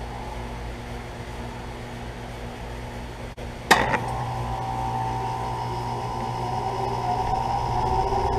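A 2017 Trane XR14 3-ton heat pump starting up in heat mode: a steady low hum, then a sharp click about three and a half seconds in as the LG scroll compressor kicks on, after which it runs with a steady hum and whine that grows gradually louder.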